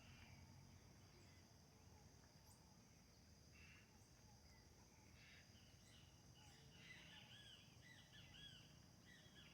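Faint outdoor ambience: birds calling with a run of short, repeated arching chirps starting about five seconds in, over a steady faint high-pitched drone.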